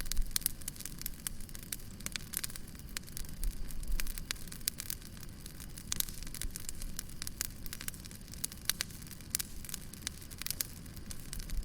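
Wood fire crackling, with frequent quick pops and snaps over a steady low hiss and rumble of burning.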